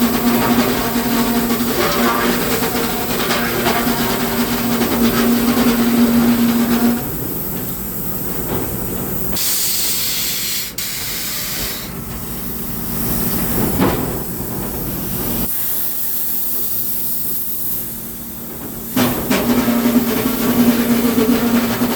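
Sawmill machinery running: a steady hum under a loud hiss. It drops away abruptly about seven seconds in, changes character a few times, and comes back near the end.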